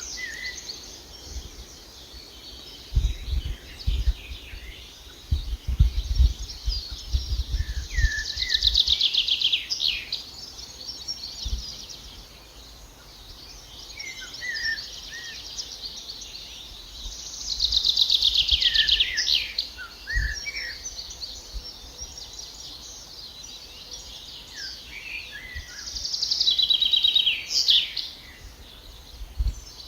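A songbird singing three loud trilled phrases, each a couple of seconds long and about nine seconds apart, with short chirps between them. Underneath runs a steady hiss, and a few low thumps come early on.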